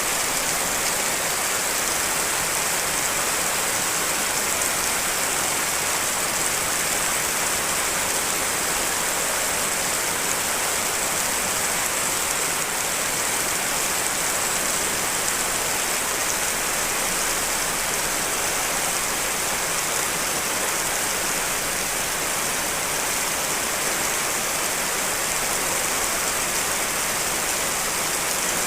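Steady, even hiss of heavy rain falling without a break, with no separate drops standing out, layered from several rain recordings.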